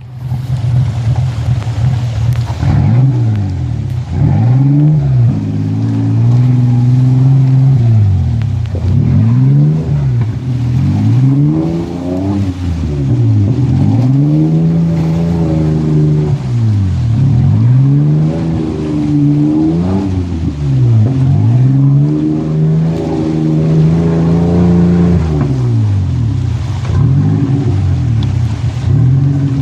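Truck engine revved hard again and again, its pitch rising and falling about every two seconds, as the two-wheel-drive truck tries to power through a river crossing and bogs down.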